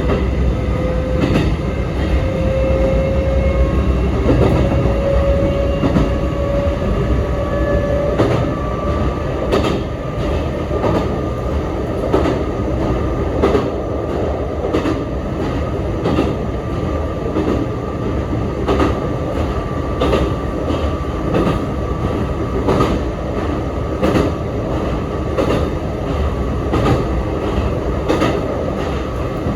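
Sanyo Electric Railway 3050 series commuter train heard from inside the car as it runs: the motor whine rises slowly in pitch over the first eight seconds as the train gathers speed, then the wheels click over rail joints about every second and a half under a steady running rumble.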